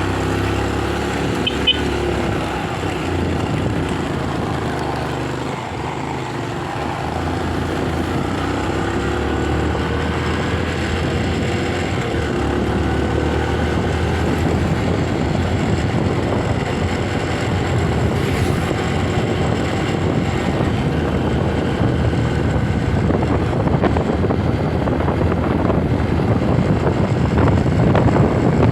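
Motorcycle engine running while being ridden, its pitch shifting slowly with speed, under a steady rush of wind and road noise that grows louder near the end.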